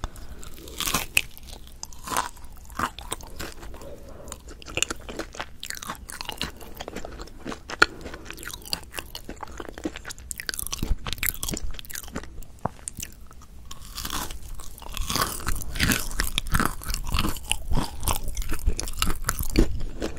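Close-miked biting and chewing of a Korean potato bread (gamja-ppang): a bite near the start, then steady chewing full of small clicks and crunches, growing busier and louder over the last six seconds.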